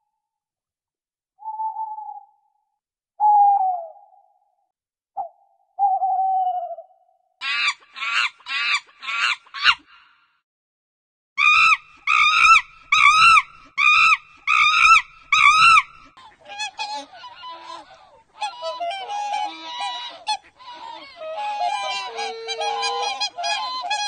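A run of animal calls in turn. First a few short, single calls about a second or two apart, each falling slightly in pitch. Then rapid trains of harsh, shrill calls, about two a second, the loudest part. Then a busy chorus of overlapping honking calls from about two-thirds of the way in.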